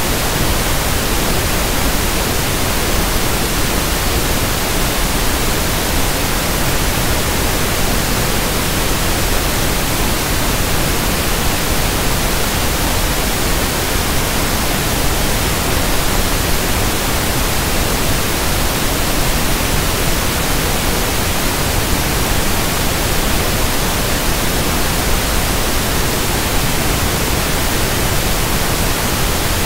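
Synthetic pink noise (1/f noise): a steady, even hiss with no change.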